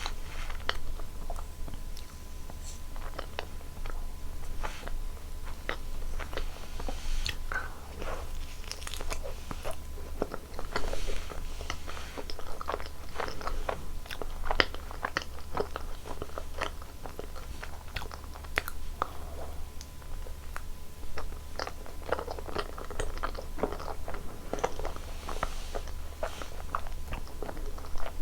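Close-miked eating: repeated bites and chewing with many sharp, crackly crunches, over a steady low hum.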